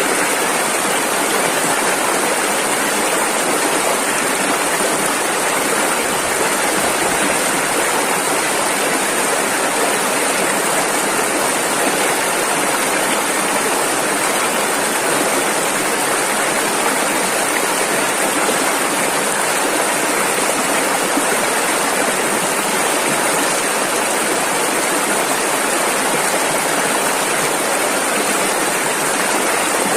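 Rushing river water, a steady, loud rush without breaks.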